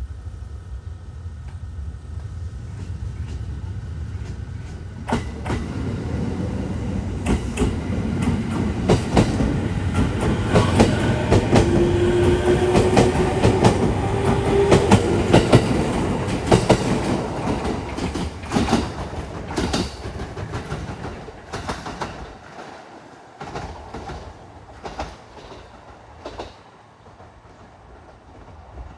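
JR 209-series electric commuter train moving off and rolling past. Its wheels click over the rail joints, and a motor whine rising in pitch comes in about halfway through. The sound builds to a peak, then fades as the train draws away.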